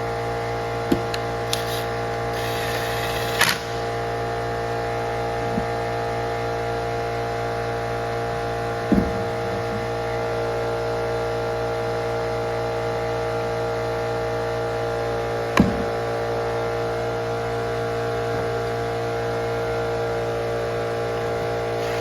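A steady electrical hum holding several fixed tones, with a few short clicks and knocks now and then.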